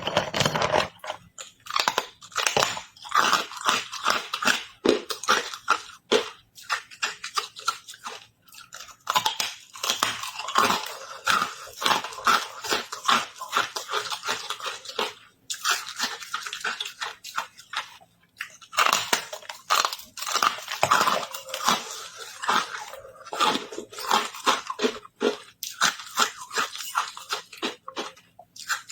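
Close-up crunching of carbonated ice being bitten and chewed, a rapid run of sharp cracks and crackles in repeated bouts with a few short pauses between them.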